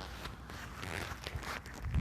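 Footsteps while walking, a run of soft irregular steps and rustles that grow a little louder toward the end.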